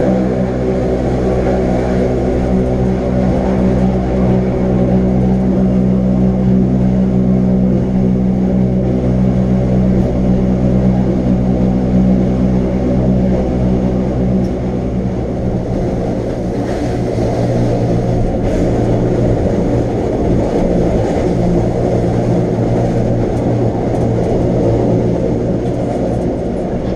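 Electric rack-railway train of the Wengernalp line running at steady speed, a constant drone of traction motors and gearing with a strong low hum and many overtones over a running rumble. The hum eases slightly about halfway through.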